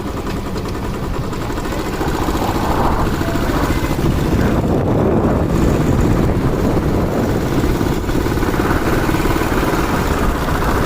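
Motorcycle engine running steadily on the move, picked up by a helmet-mounted mic with wind noise rushing over it; it gets a little louder about two seconds in.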